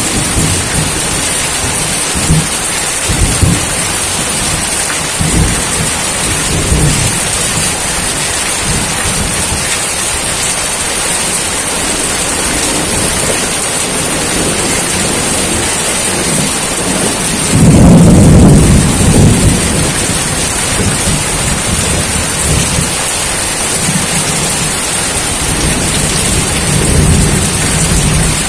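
Steady heavy rain pouring down, with low rolls of thunder rumbling underneath; the loudest thunder roll comes about two-thirds of the way through.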